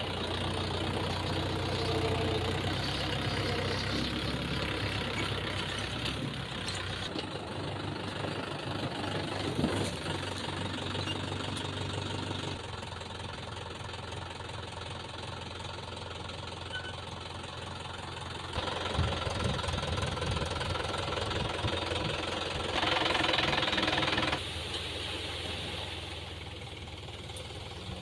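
Diesel engine of a JCB 3DX backhoe loader running as it works. Its loudness and note rise and fall with the load: it steps down after about twelve seconds, picks up again about two-thirds of the way through, and is loudest briefly near the end.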